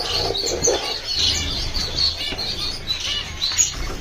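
Many caged finches chirping together, a dense, overlapping chatter of short high notes.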